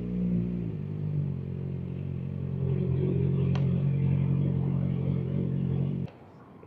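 Kawasaki Ninja ZX-4RR's 399 cc inline-four engine idling steadily, its pitch settling slightly lower under a second in, then shut off about six seconds in.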